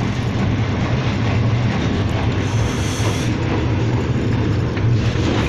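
Steady low rumble and hum of the Green Line Express passenger train, heard from inside an air-conditioned compartment.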